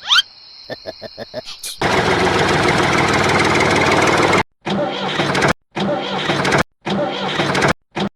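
An engine cranking with a quick run of clicks, then catching and running steadily. The running sound cuts off abruptly into dead silence three times, as if edited. A short rising whoosh comes right at the start.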